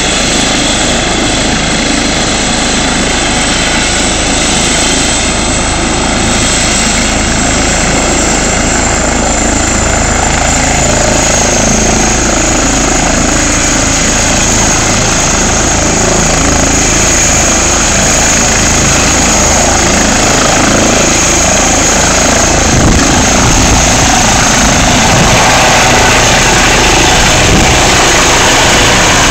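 Air ambulance helicopter running loud and steady, its rotor and turbine engine together. A thin high turbine whine on top drops slightly in pitch about ten seconds in, and the overall sound grows a little louder toward the end.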